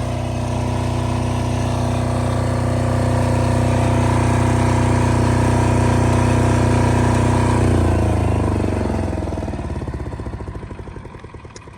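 Diesel generator running steadily, then shut off about eight seconds in: the engine winds down, its separate strokes coming slower and fading as it coasts to a stop.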